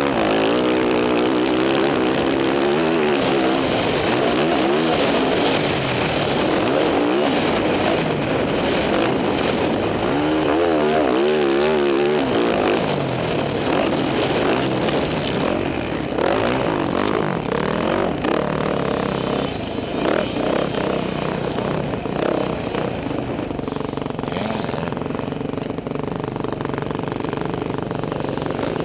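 Dirt bike engine revving up and down over and over as the throttle is worked, its pitch rising and falling. Near the end the note settles steadier and lower.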